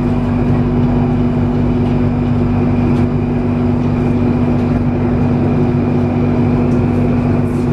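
Inside a BTS Skytrain carriage running between stations: a steady rumble with a constant low hum, unchanging throughout.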